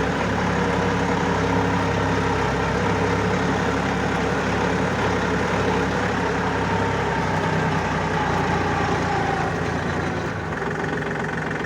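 Diesel engine of a four-wheel-drive tractor running steadily while it pulls a rotavator through a field; the engine note shifts a little lower about seven seconds in.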